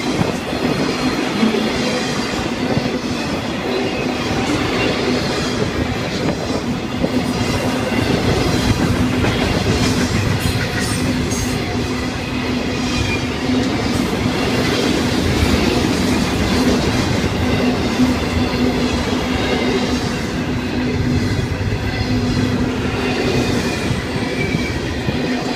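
Florida East Coast Railway intermodal freight train rolling steadily past: the rumble and clatter of flatcar wheels on the rails as trailer-carrying cars go by, with a steady low tone beneath it.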